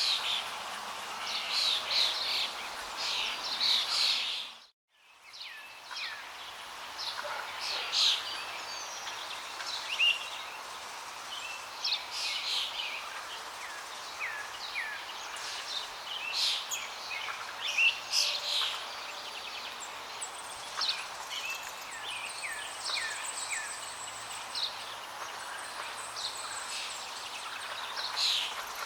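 Many small birds chirping and calling over the steady rush of flowing water. About five seconds in, the whole sound briefly drops out and fades back in.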